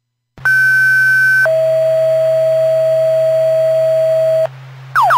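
Fire dispatch two-tone page heard over a radio: a high tone for about a second, then a lower tone held for about three seconds, over a steady low hum. Just before the end, a rapid repeating falling-pitch alert tone starts.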